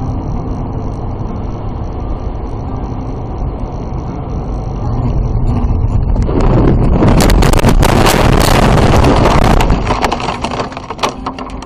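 Car road and engine noise heard from a dashcam, then about six seconds in a loud collision: several seconds of crunching and clattering impacts, with a few lighter knocks near the end.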